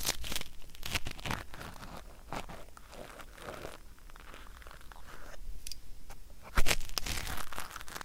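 Ear-cleaning ASMR: an ear pick scraping and crackling at stubborn flakes of earwax in the right ear, in irregular scratchy strokes with a louder crackle about six and a half seconds in.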